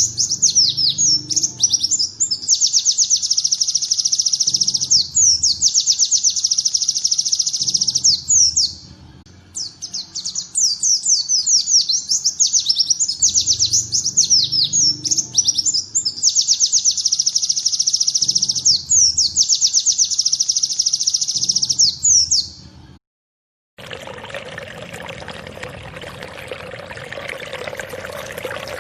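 Songbird singing rapid, high-pitched 'tembakan ciblek' trills, the fast shooting song of the bar-winged prinia, in repeated bursts of two to three seconds with short breaks. About 23 seconds in the song cuts off, and after a brief silence a steady sound of running water begins.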